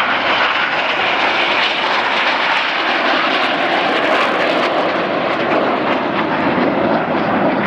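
BAE Hawk T1 jets of the Red Arrows flying low past, a loud steady rush of turbofan jet noise.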